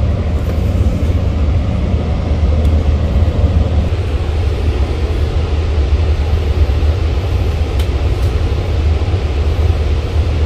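Steady low rumble and running noise of a diesel-hauled Long Island Rail Road train, heard from inside the passenger car as it rolls along.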